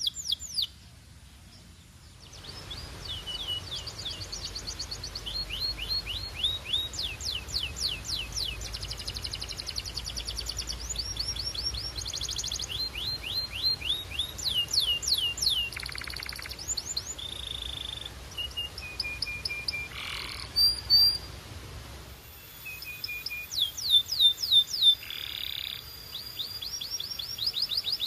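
Domestic canary singing: fast trills of repeated downward-sweeping whistled notes, switching from one rolled phrase to the next every second or so, after a brief pause about a second in. A faint low rumble sits under the song and stops near the end.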